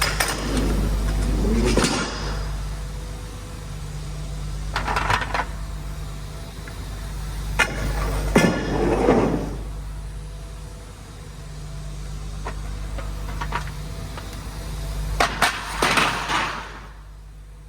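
MAN TGX 18.510 truck's diesel engine running steadily on the road. Several short clattering bursts of noise break in, the loudest about eight seconds in. The engine drops quieter near the end.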